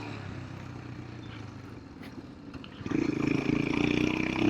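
Big-bore single-cylinder engine of a Royal Enfield Himalayan running under way, then louder about three seconds in as the throttle opens and the bike pulls on its torque, the engine note climbing slowly.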